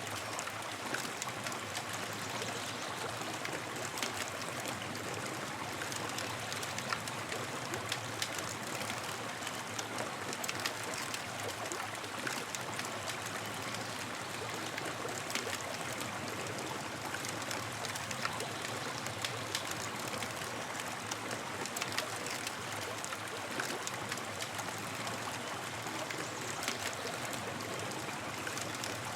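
Campfire burning with a steady hiss and frequent small sharp crackles and pops.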